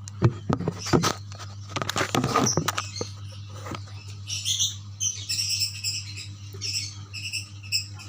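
Barn owl giving a run of short, high-pitched squeaky calls while being fed, after a burst of clicks and knocks from handling in the first few seconds.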